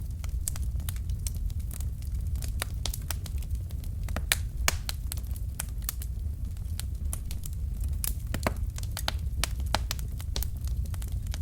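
Burning logs in a fireplace crackling, with frequent irregular sharp pops over a steady low rumble of the flames. The two loudest pops come a little over four seconds in, half a second apart.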